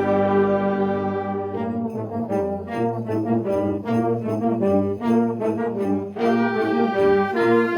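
High school marching band playing a holiday tune, led by brass: a held chord for the first couple of seconds, then a run of short, rhythmic chords.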